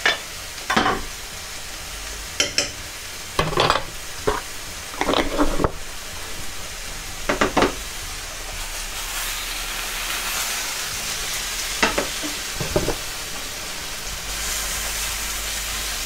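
Chicken pieces sizzling as they fry in a pan, the sizzle growing louder in the second half. Utensils clatter against the pans several times in the first eight seconds and twice more about twelve seconds in.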